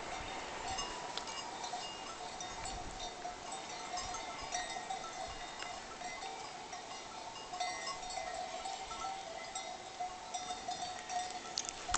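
Distant livestock bells, most likely a flock of sheep, clinking on and on, with scattered faint high-pitched tinkles over them.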